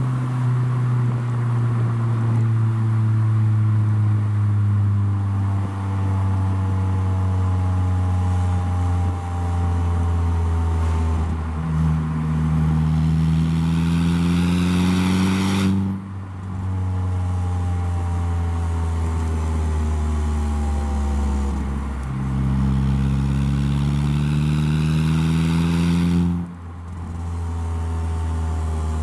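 Saab 9-3 engine running through a handmade stainless-steel full exhaust while the car is driven. The note slowly sinks in pitch, then climbs under throttle, twice over, each climb cut off by a brief drop in level.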